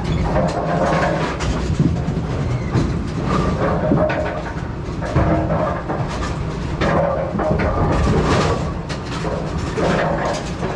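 Bowling pinsetter machinery running: a steady mechanical rumble with frequent rattling and clattering clicks.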